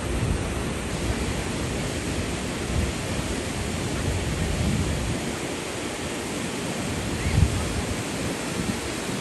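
Steady rushing of the Big Sioux River's waterfalls, with short low wind rumbles on the microphone now and then.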